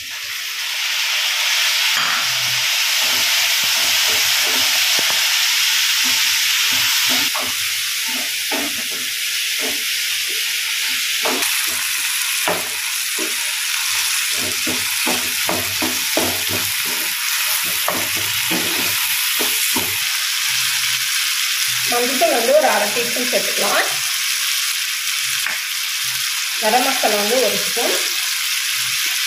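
Shallots and tomatoes sizzling in hot oil in a frying pan, with a spatula stirring and knocking against the pan. The sizzle is loudest for the first several seconds after the tomatoes go in, then settles; two short pitched sounds come in near the end.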